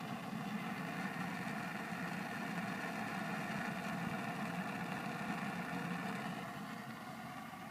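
Variable-speed PC fan running fast, a steady hum with several tones, forcing air onto burning wood pellets to make them burn hotter. It gets slightly quieter near the end.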